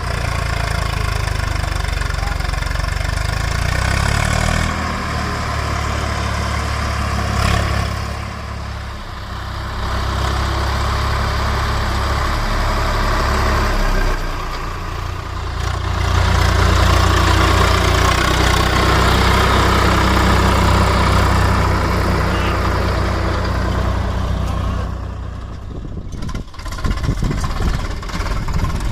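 Heavy diesel machinery engine running, its speed and load changing several times: louder through the middle stretch, then dropping and turning uneven near the end.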